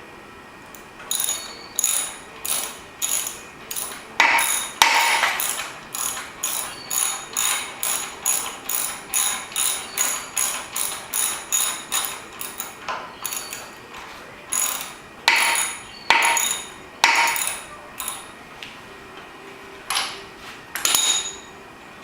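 Socket ratchet wrench tightening a lawnmower spark plug into the cylinder head: runs of quick back-and-forth ratcheting strokes, about two a second, with a few short pauses.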